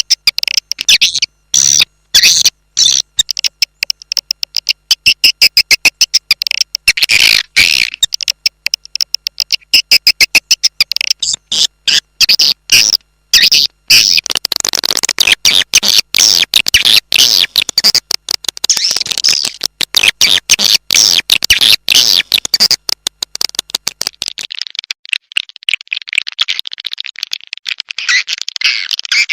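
Edible-nest swiftlet calls: rapid trains of high, clicking chirps and twitters in quick succession, turning into a denser, smoother twittering near the end. This is a looped swiftlet lure recording of the kind played to call birds into a swiftlet house.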